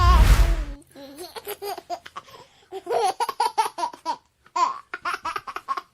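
A baby laughing in many short, high-pitched bursts, after a loud thump at the very start.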